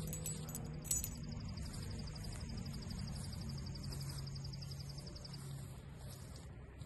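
Outdoor ambience with a steady low hum. About a second in, a light click, then a bird's high, rapid, even trill that lasts about four seconds.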